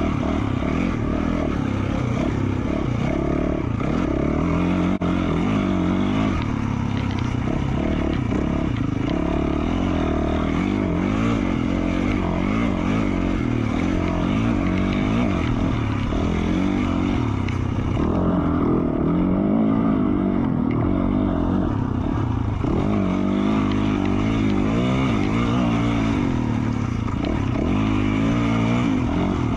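2020 Yamaha YZ450F single-cylinder four-stroke dirt bike engine, exhaling through an FMF Q4 slip-on muffler, ridden under load, its pitch rising and falling over and over as the throttle is opened and rolled off.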